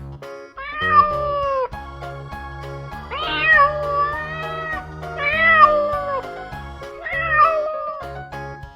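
Domestic cat meowing four times, each meow about a second long and dropping in pitch at the end, over background music.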